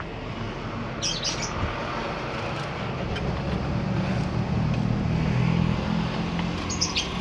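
Canary giving short chirps, a cluster about a second in and a few more near the end, over a steady low rumble that swells in the middle.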